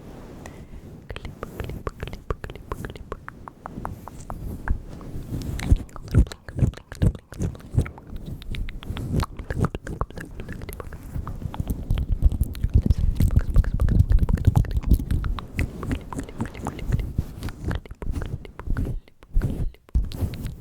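Close-miked ASMR mouth sounds: rapid, irregular wet clicks and smacks of lips and tongue over a low rumble, growing denser and louder in the middle.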